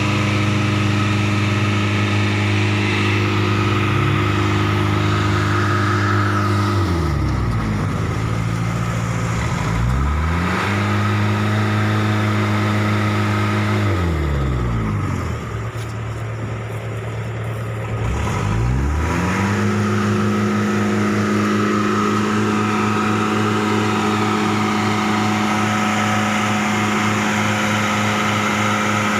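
A vehicle engine running steadily, with no speech. Twice its pitch sinks low and climbs back up: once about a quarter of the way in, and again around the middle.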